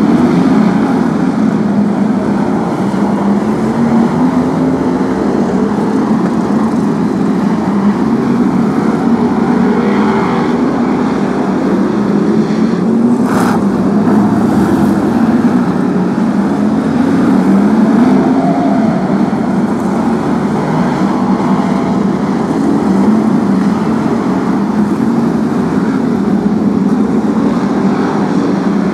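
A pack of V8-engined BriSCA F1 stock cars racing round a short oval, their engines running hard with a pitch that rises and falls every few seconds as the cars lap. A brief sharp crack about halfway through.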